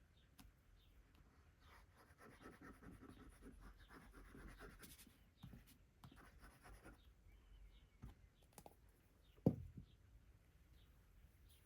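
Faint rustling and scratching of paper and cardboard being handled and worked on a craft table, with scattered small clicks and one sharp knock about three-quarters of the way through.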